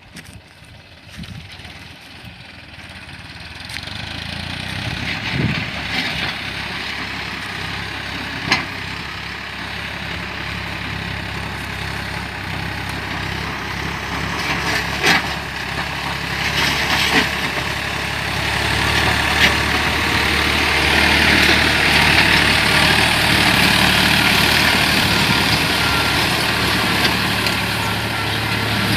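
New Holland 49 hp, 2700 cc farm tractor's diesel engine running steadily while it pulls a six-disc plough, growing louder over most of the stretch, with a few sharp knocks along the way.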